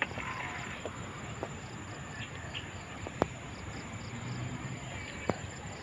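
An insect chirping steadily in a faint, even rhythm of about three chirps a second, with two sharp clicks, one about three seconds in and one near the end.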